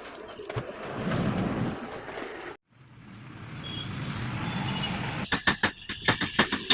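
Steady background noise that cuts out briefly about two and a half seconds in, then a quick run of sharp clicks or taps near the end.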